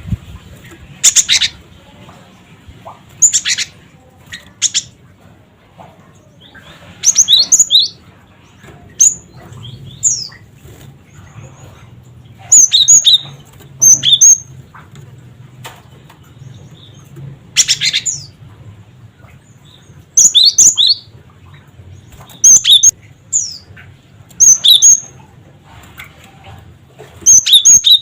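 Cinereous tit (gelatik batu) calling in short bouts every couple of seconds: harsh rasping 'cret cret' notes alternating with quick high whistled 'wu-cit' phrases. A faint low hum lies under the calls.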